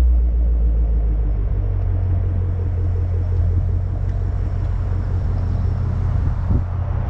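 Ford Mustang Shelby GT350's V8 idling with a low, steady rumble.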